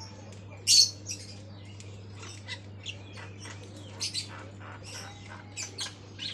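Javan myna (jalak kebo) calling in short, irregular chirps and squawks, the loudest about a second in, over a steady low hum.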